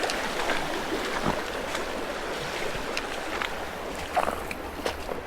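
Creek water running steadily, with a few short splashes in the second half.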